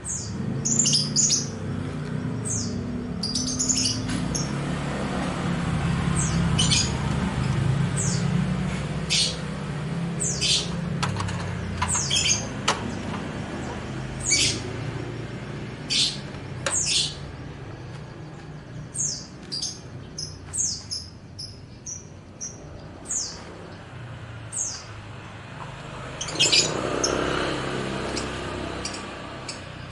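Small songbirds chirping: many short, high chirps scattered throughout, over a low steady rumble that fades by the second half. A brief louder rush of noise comes near the end.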